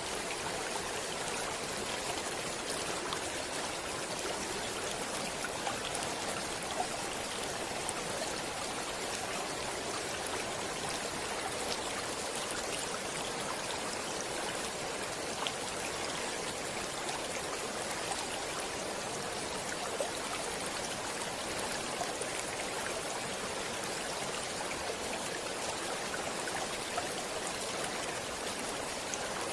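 Stream water flowing and babbling steadily, an even rush with small splashes and droplet ticks throughout.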